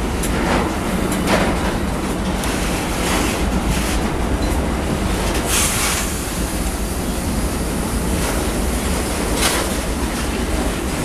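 Freight train of tank cars rolling past at close range: a steady low rumble with repeated clacks of wheels over the rail joints, and a brief louder rush of noise about halfway through.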